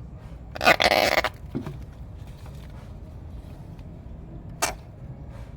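A tokay gecko giving one loud, harsh defensive call lasting under a second, shortly after the start, with a short sharp click a few seconds later.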